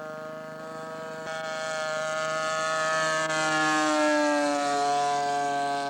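Zenoah 23 cc two-stroke gasoline engine of a large-scale radio-controlled model monoplane running at a steady high pitch. It grows louder, then its pitch sinks gently about three seconds in.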